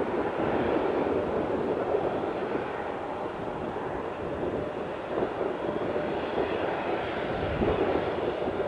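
Boeing 777-200ER's twin jet engines: a steady rumbling roar as the airliner lands.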